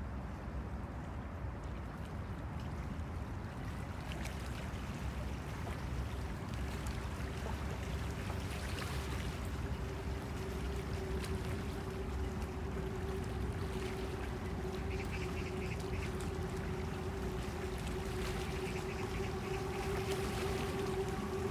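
River water lapping at the bank under a low steady rumble. From about seven seconds in, a steady engine hum comes in and grows louder.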